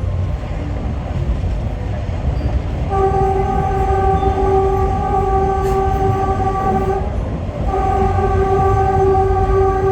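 Train horn sounding two long blasts, the first starting about three seconds in and the second just under a second after the first stops, over the steady low rumble of the moving train. The horn is a warning to people, children and animals on the line.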